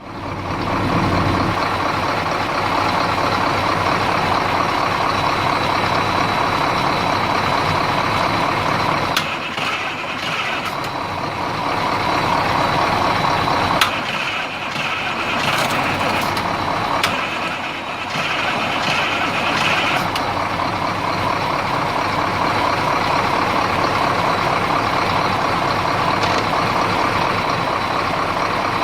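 Detroit Diesel 8.2-litre V8 diesel engine running steadily on its first start after a top-end overhaul. A heavier low rumble in the first second or so, and higher hissing sounds come and go through the middle.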